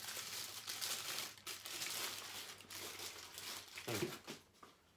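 Packaging wrap crinkling and rustling as a statue part is unwrapped by hand. The crinkling is irregular and continuous for about four seconds, then stops.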